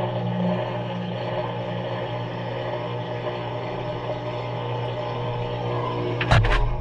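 Maytag front-loading washing machine running its delicate cycle, heard from inside the drum: a steady motor hum, then two sharp knocks near the end.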